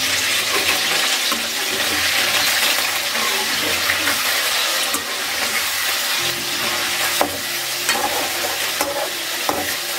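Raw chicken pieces sizzling steadily as they deep-fry in hot oil in an aluminium kadai, stirred with a perforated metal slotted spoon that clicks lightly against the pan a few times.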